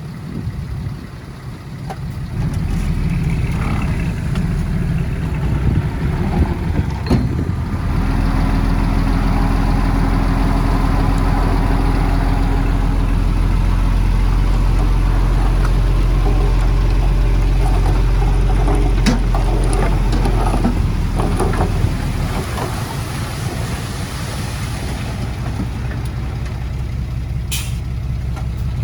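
Heavy construction machine's diesel engine running under load. It swells about two seconds in, holds steady and strongest through the middle, then eases slightly.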